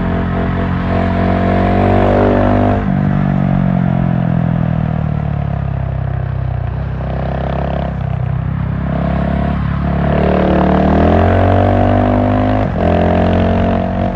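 GasGas SM700 supermoto's single-cylinder engine pulling under way: the revs climb and drop sharply at an upshift about three seconds in, fall away as the bike slows, then climb again with another upshift near the end, over a steady rush of wind.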